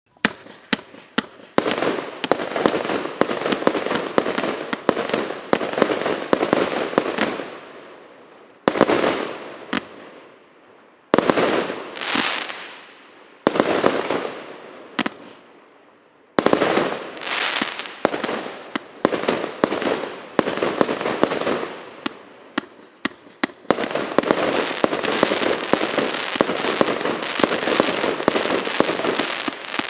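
A 66-shot firework cake going off: a rapid string of sharp shots and bursts, each trailing off in a fading rush of noise. It starts suddenly, has a few short lulls between volleys about a third of the way through and again near the middle, then turns into a dense continuous barrage near the end.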